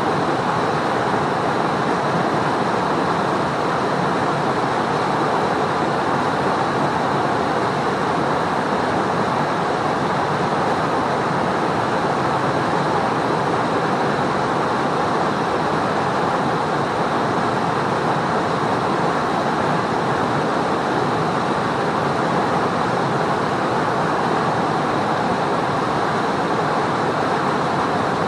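Mountain river rushing, a loud, steady, unbroken sound of fast-flowing water.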